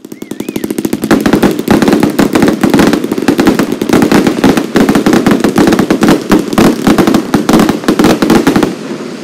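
Fireworks going off in a rapid, continuous barrage of bangs and crackles that ends abruptly near the end.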